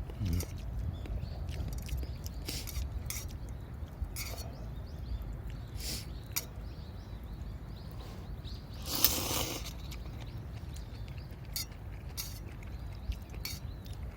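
Wood campfire crackling: scattered sharp pops a second or more apart and one longer hissing crackle about nine seconds in, over a low steady rumble.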